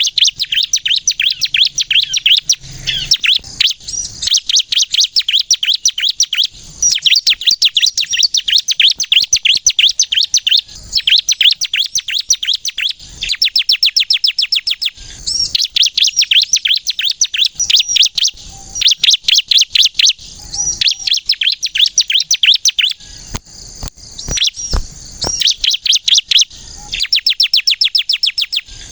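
Ciblek kristal (a bar-winged prinia type) singing energetically in fast runs of sharp, high chirping notes, several a second. Each run lasts a few seconds, with brief pauses between runs. This is the vigorous 'gacor' song used to lure and stimulate other ciblek.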